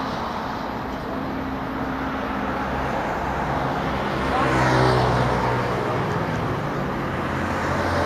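Road traffic: a motor vehicle's engine running steadily, with one vehicle passing and growing loudest about five seconds in before fading.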